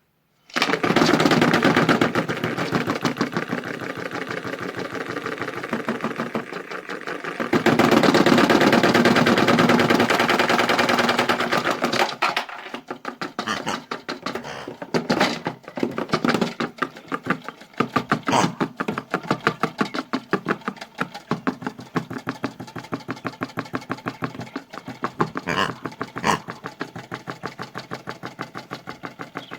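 Small motorised toy washing machine running, its drum tumbling hard objects that clatter and rattle fast and loud for about the first twelve seconds, then in a thinner, irregular rattle.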